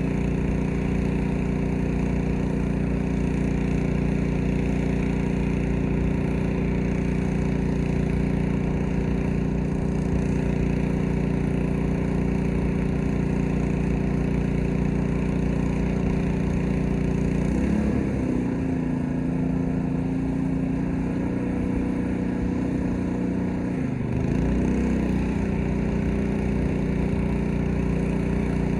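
Gas-engine pressure washer running steadily. Its engine pitch dips for several seconds about two-thirds of the way through, then climbs back.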